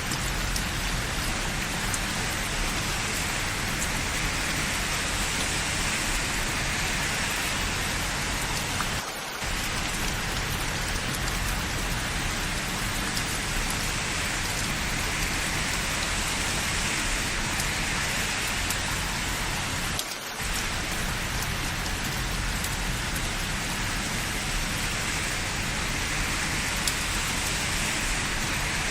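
Steady rain falling, a dense even hiss of drops on hard surfaces that dips briefly twice, about nine and twenty seconds in.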